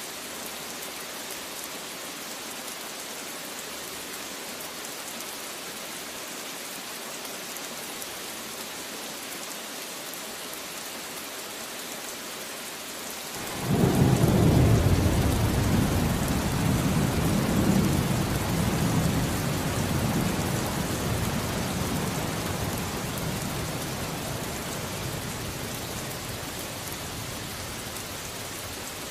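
Steady rain, with a clap of thunder about halfway through that starts suddenly as a deep rumble and slowly fades over the following ten seconds or more.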